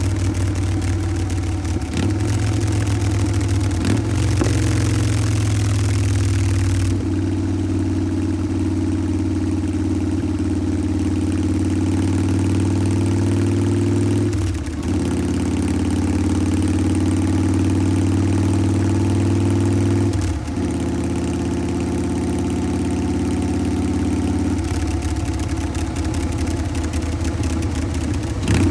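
A Harley-Davidson Twin Cam V-twin in a 2014 Softail Breakout, idling steadily through a Bassani Pro Street Turnout exhaust with the loping, uneven three-beat idle (sanbyoshi, the 'potato-potato' rhythm). The note wavers briefly a few times.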